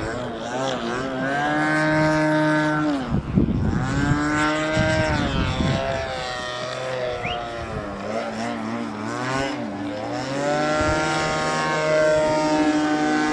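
Engine of a radio-controlled model aeroplane in flight, its pitch rising and falling as it passes by and changes throttle several times.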